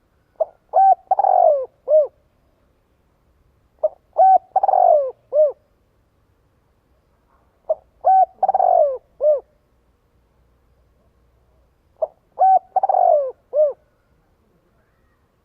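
Spotted dove cooing its song: four matching phrases about every four seconds, each a few short coos, a longer falling coo and a short closing coo.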